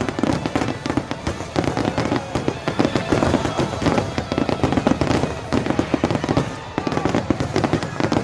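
Fireworks show in full flow: a rapid, unbroken string of bursts, bangs and crackles, with music playing underneath.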